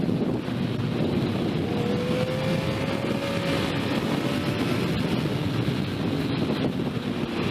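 Motorcycle riding at speed, with heavy wind rushing over the microphone; a faint engine note can be heard under the wind and climbs slightly about two seconds in.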